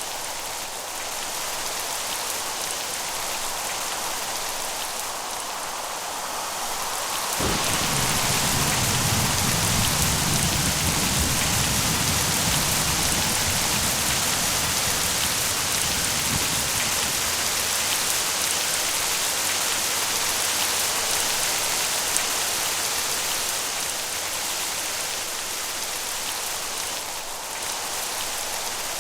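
Steady rain hissing, with a roll of thunder breaking in suddenly about a quarter of the way in and rumbling low for several seconds before slowly fading back under the rain.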